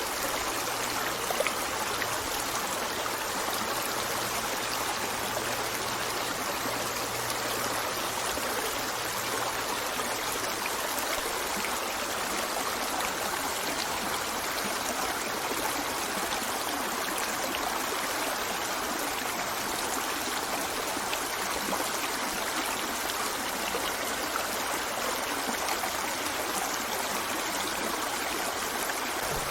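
River water running steadily over rocks, a continuous rushing babble with small trickles and splashes.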